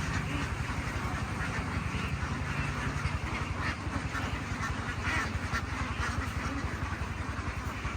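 A flock of farm ducks quacking over and over, many calls overlapping, with a low steady engine hum underneath.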